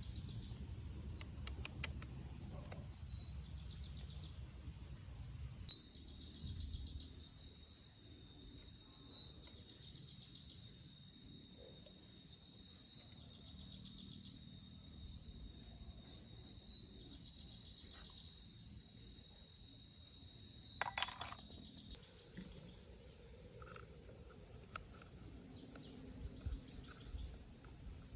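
Insects calling: a steady high-pitched buzz with short chirping trills repeating about every two seconds. The buzz gets much louder about six seconds in and drops back suddenly a little after twenty seconds.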